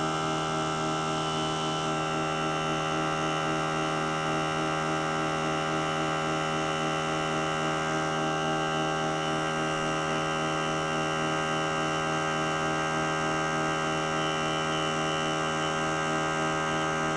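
A small portable electric air compressor running steadily, pumping up its tank, with an even, unchanging hum.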